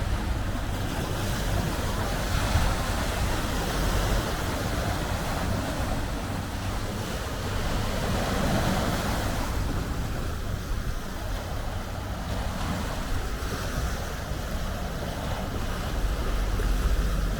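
Sea waves washing on a rocky shore, with wind buffeting the microphone as a low rumble.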